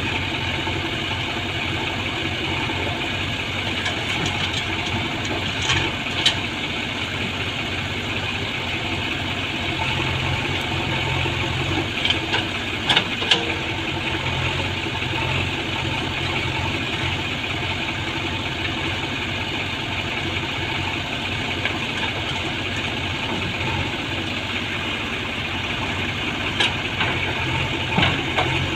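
Diesel engine of heavy farm or earthmoving machinery running steadily at idle, with a few short sharp knocks.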